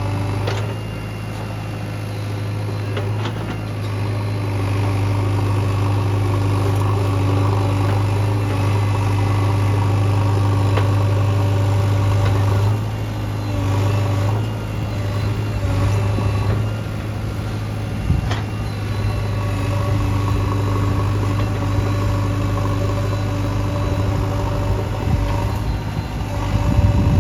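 Heavy diesel engine of earthmoving machinery running steadily, its loudness swelling and easing a few times, with a few short knocks of metal or earth.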